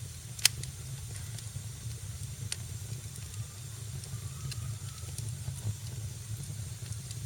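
Wood fire in a fireplace crackling and hissing over a steady low rumble, with a sharp loud pop about half a second in, a smaller one about two and a half seconds in, and scattered lighter ticks.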